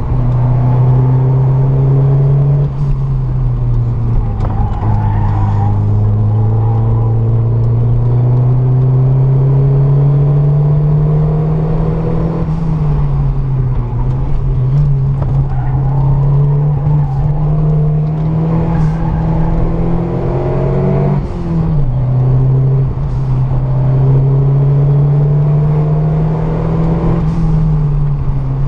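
Ford Escort RS Cosworth's turbocharged four-cylinder engine under hard acceleration, heard from inside the cabin. Its pitch climbs slowly in each gear and drops sharply at the shifts, about three times.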